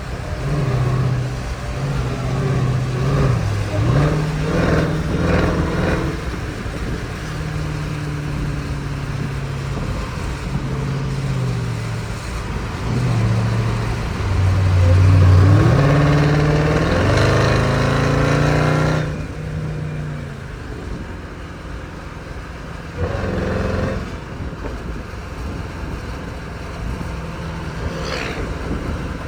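Jeep Grand Cherokee Trackhawk's supercharged V8 under changing throttle in traffic, its note stepping up and down. It climbs in pitch on a hard pull from about fifteen seconds in, then drops away sharply near twenty seconds.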